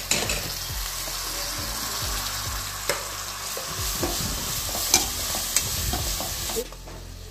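Fresh fenugreek leaves sizzling in hot oil in a kadai. The sizzle starts sharply as the leaves go in, and a metal spatula stirring them into the onion-spice masala clicks against the pan a few times. The sizzle drops off suddenly near the end.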